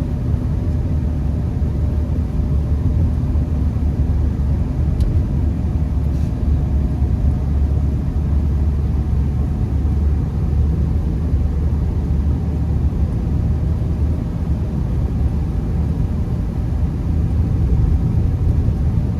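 Steady low rumble of a Honda Accord being driven on a snowy road, heard from inside the cabin: engine and tyre noise.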